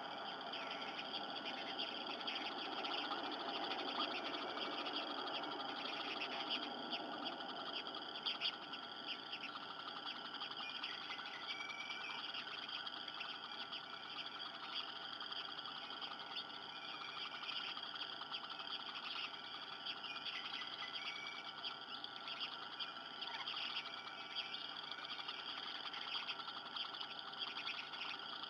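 Outdoor nest ambience: a steady background with scattered short, high bird chirps, several of them from the middle on. A little more low rustling noise in the first several seconds.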